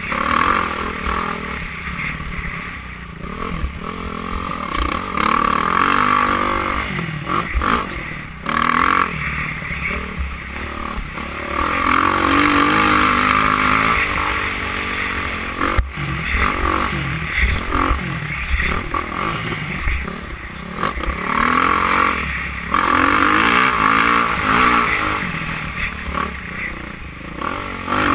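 Motocross bike engines racing, their pitch repeatedly rising and falling as the riders rev up and roll off, with louder passes around the middle and near the end.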